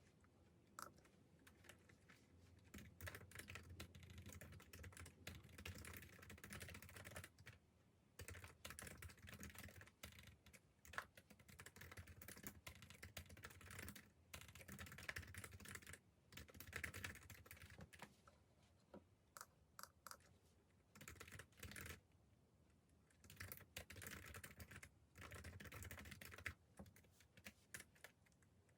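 Typing on a computer keyboard, quick runs of key clicks in bursts of a few seconds with short pauses between them.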